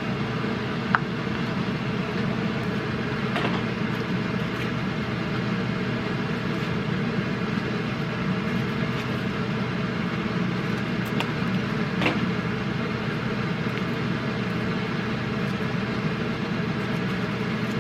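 Steady rumbling noise of a moving road vehicle, with a few faint clicks.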